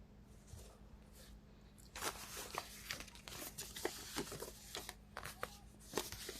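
Tarot cards being shuffled and handled: a dense rustle of card edges with quick clicks, starting about two seconds in.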